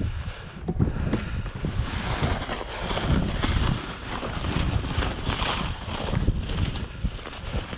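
Wind buffeting the microphone: a gusting low rumble, with a rougher hiss swelling in the middle.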